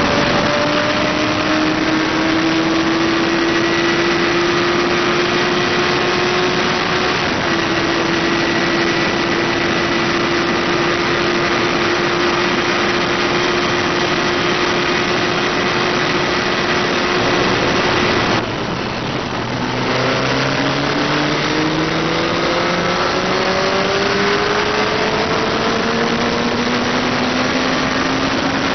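Suzuki GSX-R sport bike's inline-four engine held at high revs at motorway speed, its note slowly climbing, with heavy wind rush over it. About two-thirds of the way through the revs drop sharply and the sound briefly dips, then the engine pulls and climbs in pitch again.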